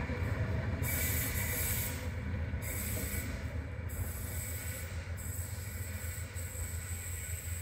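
Locomotive-hauled V set passenger train pulling away, its low rumble slowly fading as it recedes.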